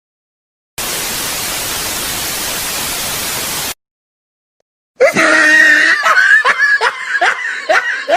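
Sound-effect burst of even static hiss, like an untuned TV, lasting about three seconds and switching on and off abruptly. After a second of silence comes a loud, high-pitched string of short repeated calls, about three a second.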